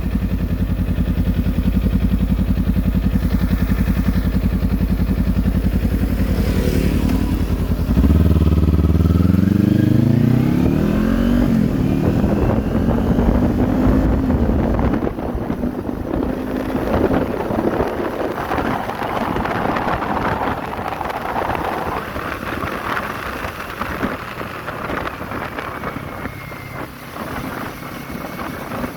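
Kawasaki Z400's parallel-twin engine running steadily, then revving up about eight seconds in with the pitch climbing for several seconds. From about halfway, wind noise on the microphone takes over, with the engine fainter beneath it.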